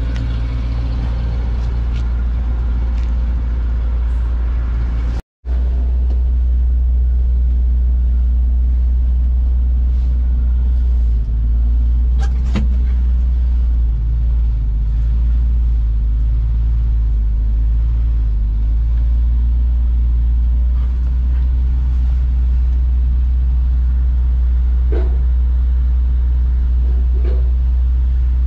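1981 Datsun 620 pickup's four-cylinder engine running with a steady low rumble. It is heard first near the exhaust pipes and then from inside the cab. The sound cuts out for an instant about five seconds in, and the engine's note rises and falls slightly in the middle stretch.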